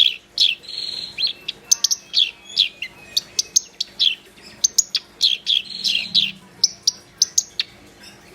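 Black-browed reed warbler in full song: a rapid, varied run of sharp downward-sweeping whistles and clicks with a couple of harsh buzzy notes, breaking off shortly before the end.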